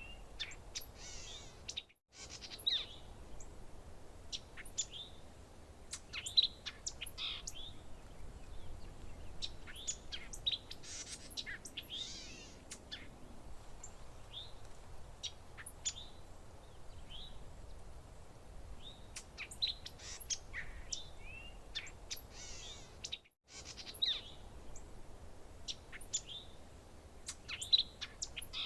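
Several songbirds chirping and calling: quick chirps, short trills and rising notes overlapping, over a low steady background hiss. The sound cuts out completely for a moment twice, about two seconds in and again near the end.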